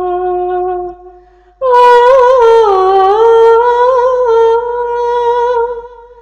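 A woman's solo singing voice: a held note that fades out about a second in, then, after a short pause, a long ornamented note that bends up and down and fades near the end.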